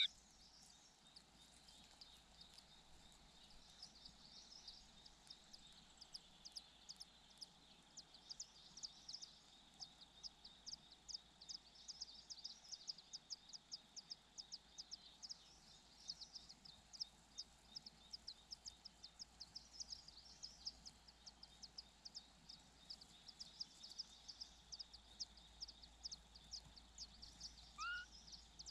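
Faint, rapid high-pitched bird chirps, several a second, with a short rising call near the end.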